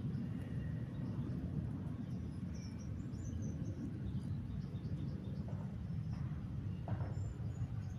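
Outdoor ambience: a steady low rumble with faint, short, high bird chirps scattered through it, and a couple of brief soft knocks or rustles near the end.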